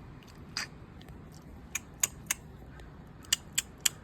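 Sharp, short clicks: one, then a run of three about a quarter second apart, then another run of three.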